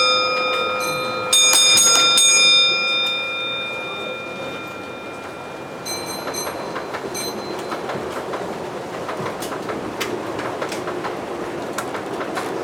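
A bell struck several times in the first few seconds, its tones ringing on and fading. Then a model train runs with a steady clickety-clack of wheels over rail joints.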